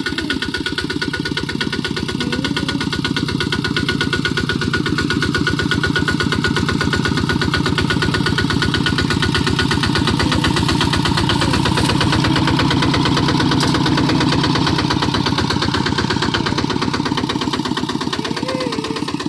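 Kubota hand tractor's diesel engine running steadily with rapid, even firing pulses, a little louder in the middle stretch.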